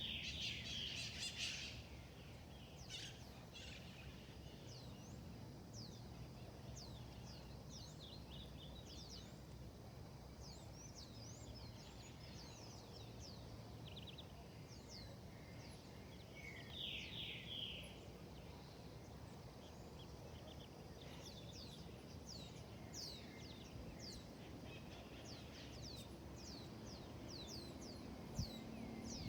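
Wild birds chirping: many short, high, falling chirps throughout, with a louder burst of calls at the start and again about 17 seconds in. A low steady rumble lies underneath, and there is one sharp click near the end.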